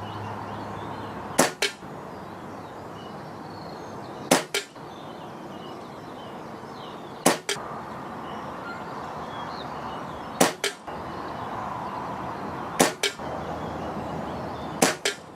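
Six shots from a .177 pre-charged pneumatic air rifle, one about every three seconds. Each is a sharp crack followed a fraction of a second later by a second knock, the pellet striking the 30-yard target. Steady wind noise runs underneath.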